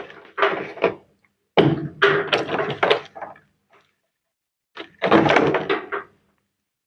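Plastic washing-machine parts being handled and knocked into place: three bursts of clattering knocks and rattles.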